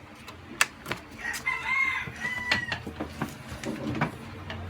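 A rooster crows once, a wavering call lasting about a second and a half, starting about a second in. Sharp clicks and taps, the loudest one just before the crow, come from handling the sewing machine as the thread is cut.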